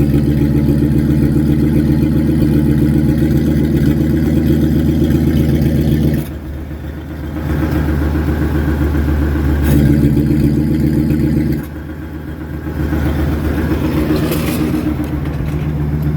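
Ford Excursion's exhaust, fitted with an electric cutout, a Flowmaster FX muffler and a ZZP resonator, running with a loud, steady rumble. About six seconds in, and again near twelve seconds, it drops off suddenly, then builds back up over a second or two.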